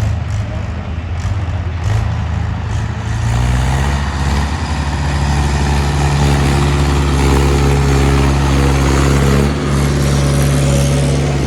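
Tractor diesel engine running loudly. About three and a half seconds in its pitch rises a little and it grows louder, then holds a steady, even note.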